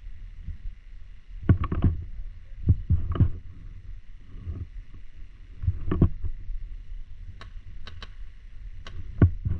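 Paintball markers firing: a few sharp pops in the second half, two in quick succession near the end, over low rumbling knocks of handling and wind noise on a body-worn GoPro.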